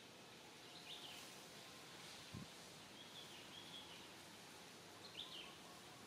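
Faint outdoor background hiss with a few short, high bird chirps: about a second in, around three seconds in, and again near the end. A single soft low thump about two and a half seconds in.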